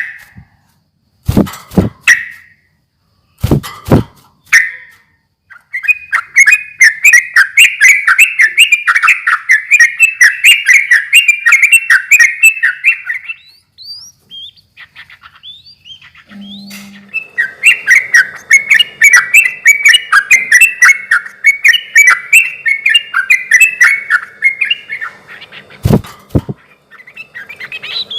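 Yellow-vented bulbul singing: two long bouts of fast, bubbling chattering song, each several seconds long, after a few short chirps. Sharp knocks come with the chirps near the start and once more near the end.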